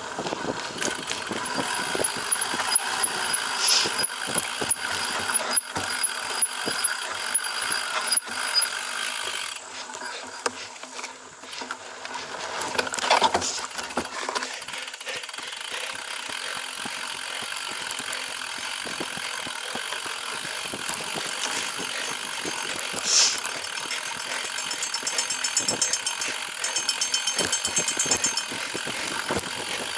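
A cyclocross bike being ridden over a rough course: the chain and frame rattle and the tyres rumble, with dense irregular clicks throughout. A fast, regular ticking comes in near the end.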